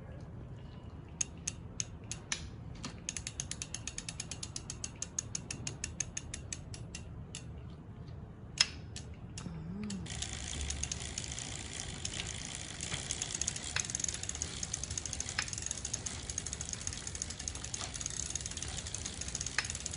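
Ratchet-like clicking from a Brompton folding bicycle's drivetrain: a run of sharp clicks about five a second, then a few single clicks with one loud one, then fast, continuous ticking.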